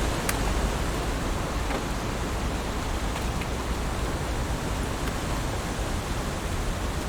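Heavy rain falling steadily as a dense even hiss, with a few sharp individual drop taps standing out here and there.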